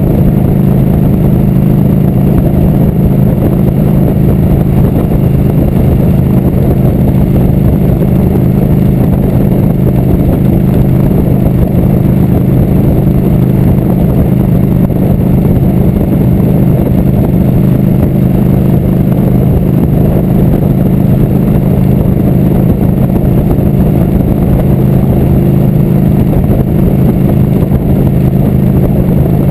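Motorcycle engine running at a steady cruising speed, a constant loud drone that neither rises nor falls.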